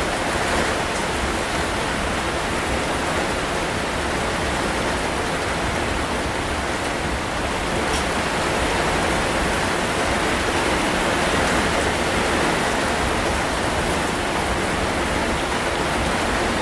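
Steady rain, an even hiss that holds without a break and swells slightly about halfway through.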